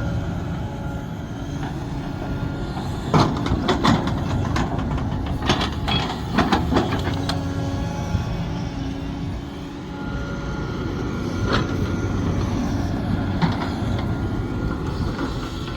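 Sumitomo SH370LHD-6 excavator's diesel engine running steadily under work. Sharp knocks and clanks come in clusters about three to four seconds in and again around six seconds, with single knocks later.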